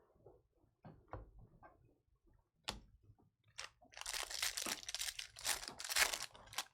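A few light handling clicks, then, about four seconds in, a trading-card pack's foil wrapper being torn open and crinkled for a couple of seconds.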